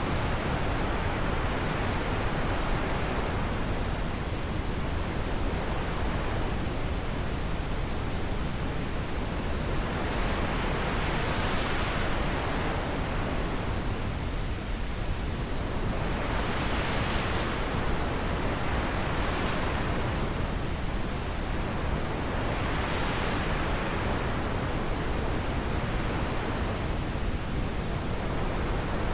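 Wind blowing steadily, with gusts that swell and ease every few seconds.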